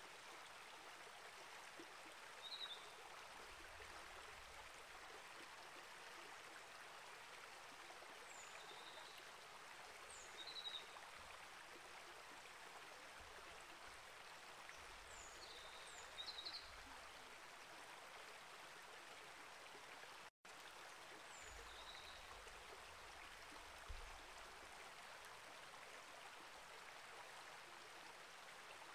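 Small rainforest creek flowing steadily, with short high bird chirps breaking in over the water several times. The sound cuts out for an instant about two-thirds of the way through.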